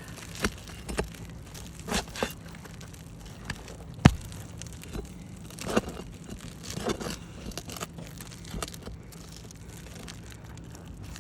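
Asphalt roof shingles being pried up to pull their nails: irregular crunching and scraping, with scattered clicks and one sharp knock about four seconds in.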